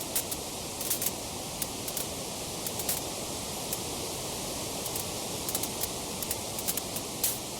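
Wood fire crackling: a steady hiss with many sharp, irregular pops and snaps, a louder snap near the end.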